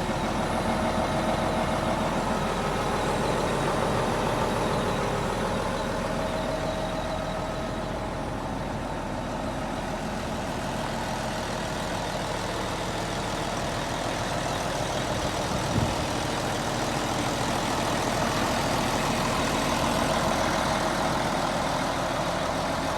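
Case David Brown 1370 tractor's four-cylinder diesel engine running steadily, its level swelling and easing a little, with one short click about sixteen seconds in.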